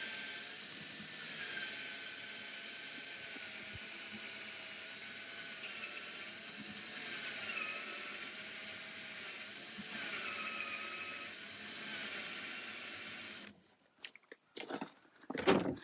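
Old battery-powered cordless drill grinding slowly into aluminium, its motor whine wavering in pitch as it bogs under load because the battery is nearly flat. The whine stops abruptly near the end, followed by a few short knocks.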